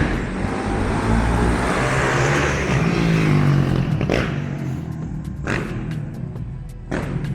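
Suzuki RM-Z450's single-cylinder four-stroke engine running as the dirt bike is ridden. The engine is loudest about one to three seconds in, then eases off.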